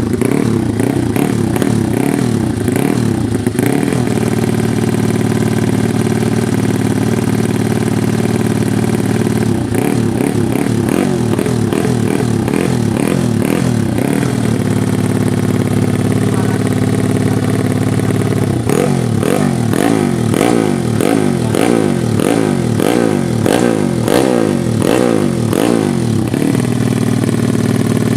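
Tuned fuel-injected drag-bike motorcycle engine idling, with the throttle blipped in quick repeated revs three times: near the start, around ten seconds in, and for several seconds from about nineteen seconds in. The exhaust note is calm, like a stock bike.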